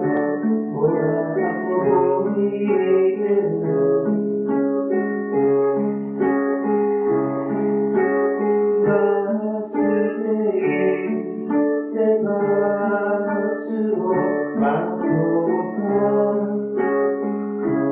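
A song performed live: guitar and keyboard playing, with singing.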